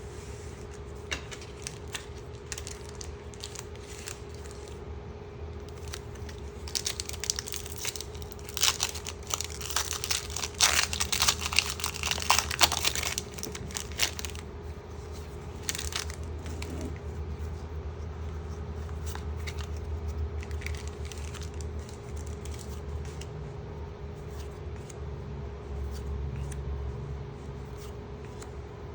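Foil booster pack wrapper crinkling and tearing open, with a run of loud crackles in the middle, and quieter handling of trading cards before and after. A steady low hum sits underneath.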